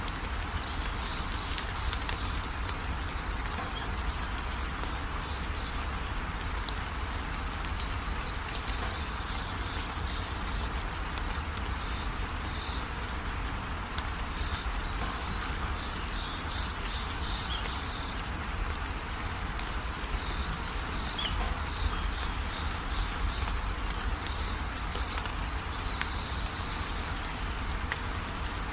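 Steady rain falling, with small birds chirping in quick repeated bouts every few seconds over it.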